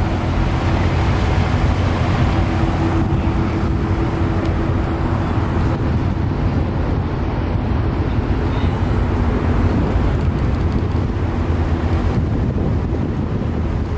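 Steady low rumble of car engines, with wind noise on the microphone.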